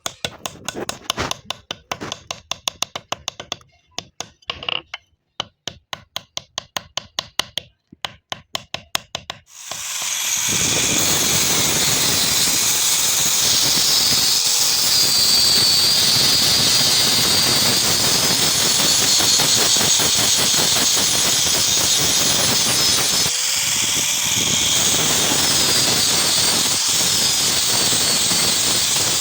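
Quick hammer taps, several a second, for the first nine seconds or so. Then a power grinder starts and runs steadily with a high, wavering whine, briefly slowing and picking up again about two-thirds of the way through.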